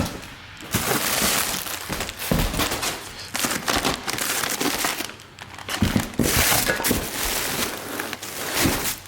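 Packaging from the exhaust box crinkling and rustling as it is handled, in irregular crackling bursts with a short lull about five seconds in.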